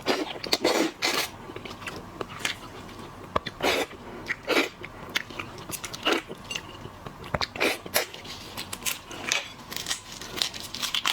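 A person eating close to the microphone, chewing and biting with irregular crunches and wet mouth clicks.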